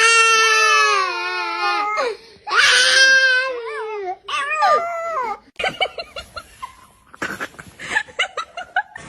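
Long, wailing, crying-like cries with a wavering pitch, several in a row, each lasting up to about two seconds. After about the middle they give way to a quick run of short, choppy sounds.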